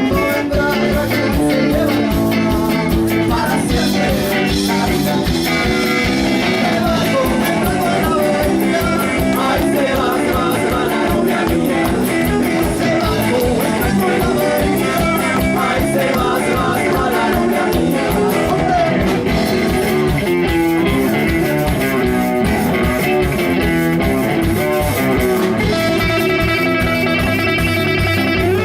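Live band playing a rock song, guitar to the fore over a steady beat.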